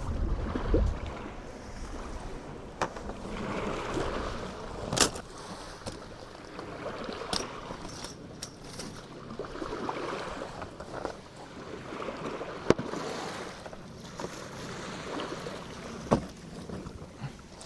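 Sea waves washing onto a beach in slow swells, with wind rumbling on the microphone at the start. A few sharp clicks and knocks cut through, the loudest two in the second half.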